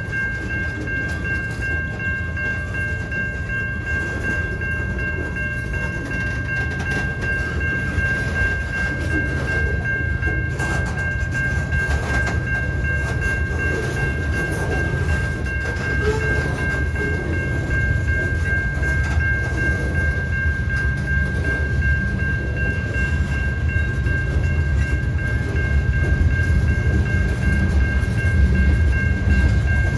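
Freight train of covered hopper cars rolling past: a steady wheel-and-rail rumble with scattered clanks, growing slowly louder toward the end. A steady high ringing tone sits over it the whole time.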